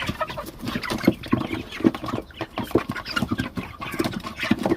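A flock of meat chickens clucking and squawking in an excited, constant jumble, mixed with many short knocks and scuffles, as they scramble for chunks of raw carp.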